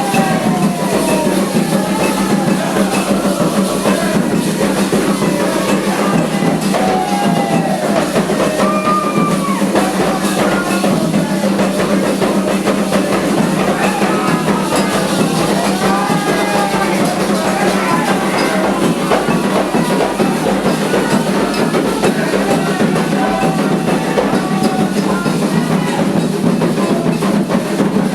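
Candomblé ritual drumming: atabaque hand drums played in a dense, steady rhythm, with voices singing a chant over it.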